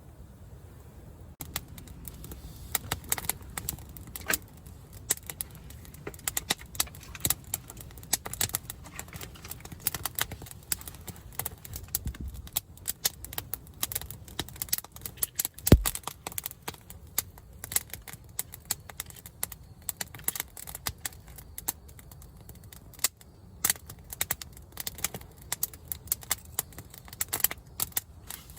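Wood campfire crackling and popping with irregular sharp snaps, and one louder low thump about halfway through.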